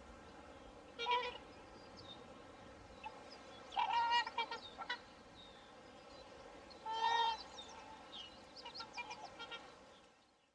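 Swans honking: three loud nasal calls, about a second in, around four seconds and around seven seconds, then a run of softer short calls near the end, over a steady low background noise. The sound fades out just before the end.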